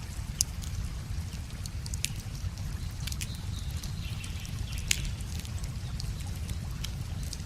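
Wood fire crackling, with scattered sharp pops and one louder snap about five seconds in, over the steady trickle and rush of a small river.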